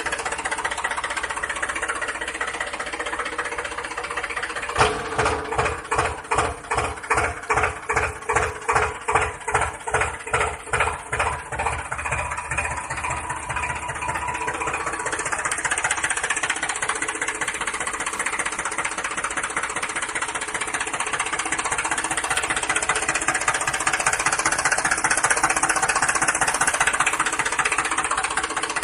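Small motor of a toy vehicle running steadily, with an even pulsing of about two to three beats a second for several seconds starting about five seconds in.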